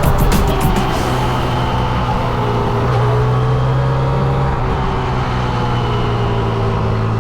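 Honda Monkey 125 motorcycles with single-cylinder engines running at a steady cruise. One engine note holds steady and loud while other bikes' engine notes drift up and down in pitch.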